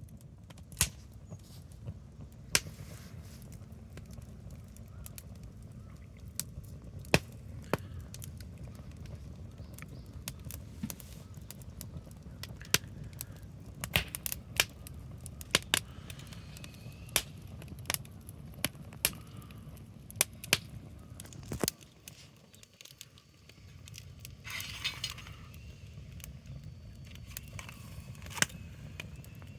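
Wood fire crackling, with sharp irregular pops and snaps over a steady low rustle.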